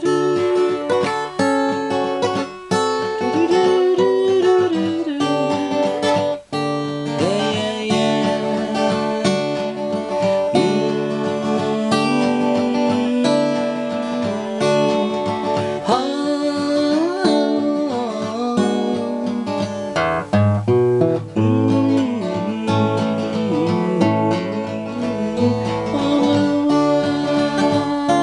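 Martin D-28 steel-string acoustic guitar playing an instrumental passage, with a wordless vocal line at times.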